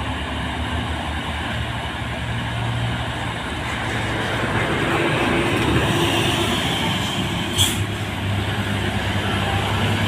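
Diesel engine of an Isuzu tanker truck running steadily under load on a hill climb, with a brief hiss about seven and a half seconds in.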